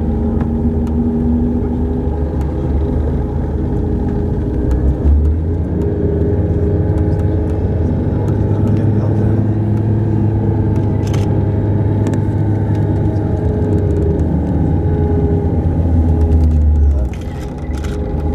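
Tour coach engine running, heard from inside the bus as a steady low drone that steps up slightly in pitch about five seconds in and drops back down near the end.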